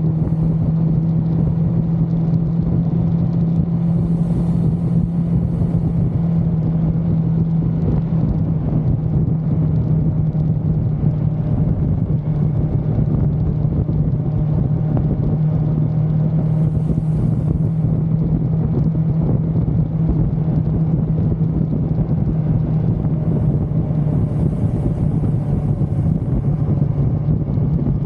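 1982 Suzuki GS550L's inline-four engine running at a steady cruise, holding one even pitch with no gear changes, over a steady rush of riding noise.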